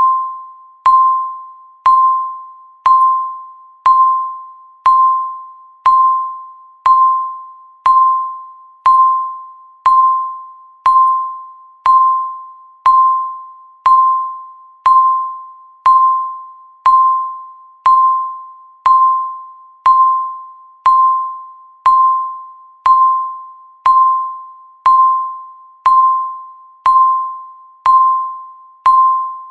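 Countdown timer's tick sound: a short bell-like electronic tone with a sharp click at its start, once every second, each fading away before the next.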